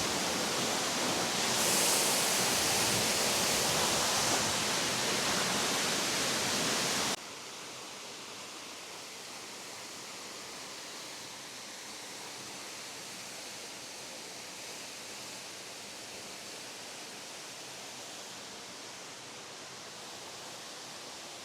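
Waterfall: a steady rush of water pouring over rock. It drops sharply in level about seven seconds in and then carries on, quieter.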